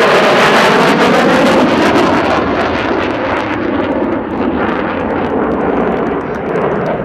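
F-16 fighter jet's engine roaring loudly on a low pass. Its hiss dies away about two and a half seconds in, and the noise slowly fades as it moves off.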